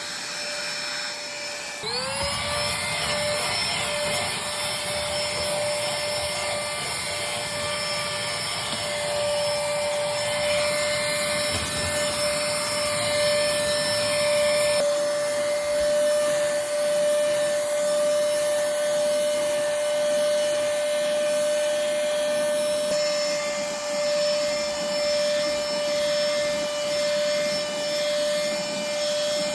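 Bossdan cordless handheld vacuum running: its motor rises in pitch about two seconds in, then runs steadily with a high whine over the rush of suction.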